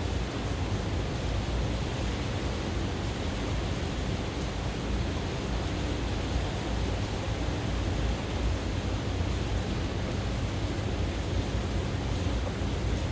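Steady rain falling, heard as an even hiss with a low rumble beneath it.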